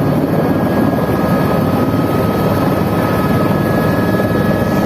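Helicopter rotor and engine running steadily and loud, a rapid even chop with a faint high whine over it.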